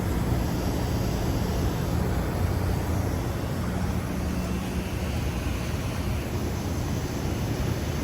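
Carrier Infinity Greenspeed heat pump outdoor units running: a steady low hum from the variable-speed compressor under the even rush of the condenser fan.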